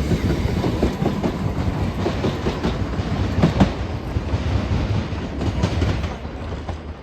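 A train running past on the track, its wheels clattering over the rail joints, the sound dying away near the end.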